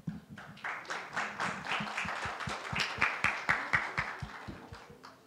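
A group of people clapping together in a steady rhythm, about four claps a second, dying away near the end.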